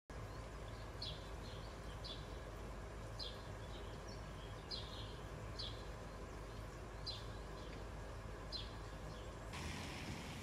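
A small bird chirping, about nine short high notes a second or so apart, over a faint steady background hiss that changes near the end.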